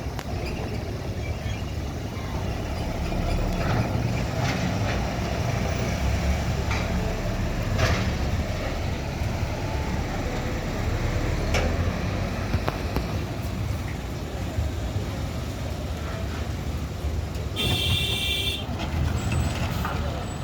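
Heavy vehicle engines running with a steady low rumble, broken by a few sharp knocks, and a short high horn toot near the end.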